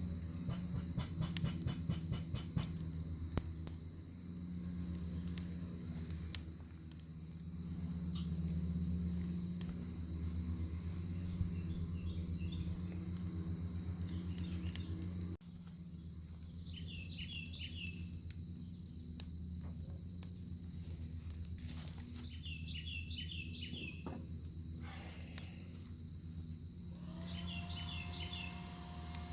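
Bacon sizzling in a pan over a campfire: a steady high sizzle with scattered sharp crackles and pops from the fire. A short cluster of quick chirps comes in about four times in the second half.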